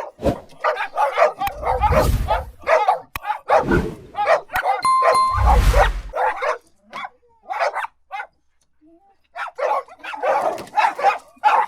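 Dogs barking in quick, overlapping volleys, with a lull of about two seconds after the middle before the barking picks up again. Low rumbling thumps come twice in the first half, and a short steady beep-like tone sounds about five seconds in.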